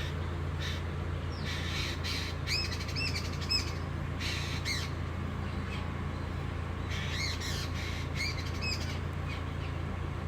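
A bird chirping in two short runs of quick, repeated arched notes, over a steady low hum.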